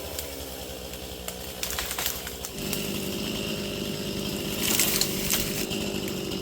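Stihl two-stroke chainsaw running, its engine note changing and getting a little louder about two and a half seconds in.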